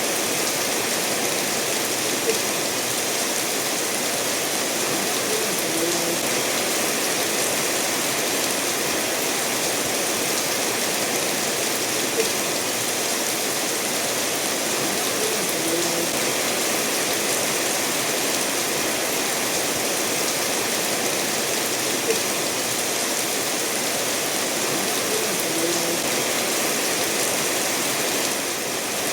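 Steady rainfall mixed with a stream running over stones, an even hiss throughout. Three brief louder ticks stand out, about ten seconds apart.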